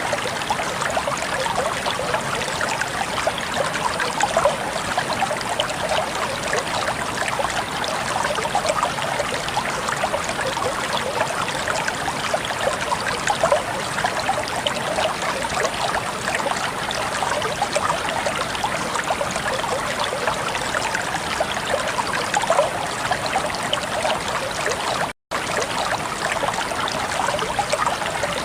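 Water flowing and babbling in a stream, a steady even rush full of small bubbling splashes. The sound cuts out for a split second near the end.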